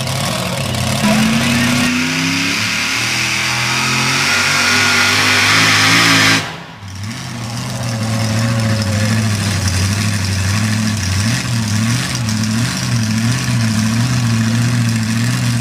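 A super modified four-wheel-drive pulling truck's engine climbing in pitch under load, then cutting back abruptly about six seconds in. It keeps running, with the throttle rising and falling repeatedly. The driver has backed out early in the pull, which the announcer hopes is not a transmission problem.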